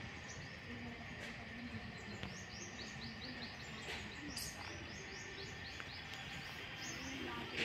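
Outdoor background noise with a bird calling a quick, repeated series of short, falling chirps, about three or four a second.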